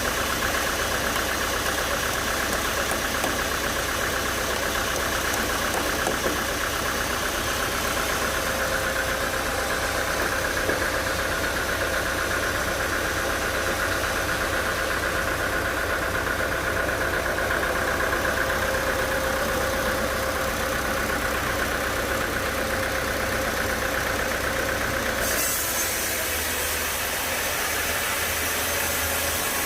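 Sawmill machinery running steadily, a continuous mechanical drone with a high whine over it. About 25 seconds in the sound changes abruptly, turning hissier and losing some of its low rumble.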